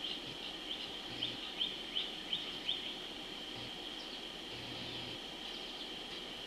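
A bird calling: a run of about seven short, sharp falling chirps, roughly three a second, over the first three seconds. They sound over a steady high drone of outdoor background.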